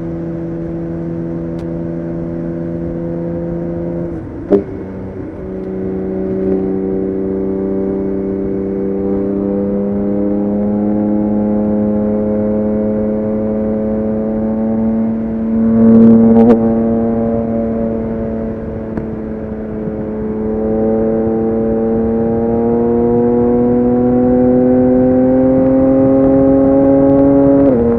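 BMW K1600GTL's inline-six engine accelerating. Its note holds steady at first; after a sharp click about four seconds in, the pitch climbs slowly for over ten seconds to a brief loud burst, then climbs again and drops suddenly near the end.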